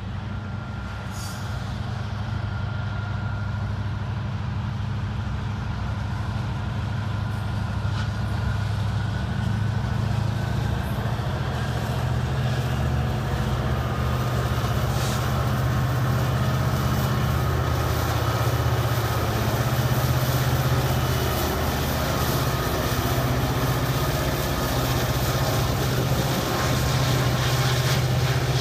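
Loaded autorack freight cars rolling by with wheel clatter on the rails, over the steady low drone of a diesel locomotive engine that grows gradually louder as a distributed-power locomotive in the train comes past, working under power.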